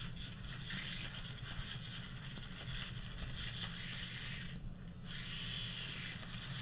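A broken toy helicopter's small electric motor and rotor running with a steady hissing whir and a faint whine, cutting out briefly about four and a half seconds in before picking up again.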